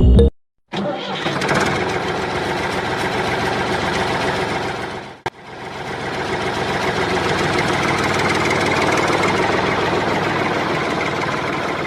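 Small engine of a home-made mini tractor running steadily with a fast, even pulse, starting about a second in and briefly cutting out about five seconds in.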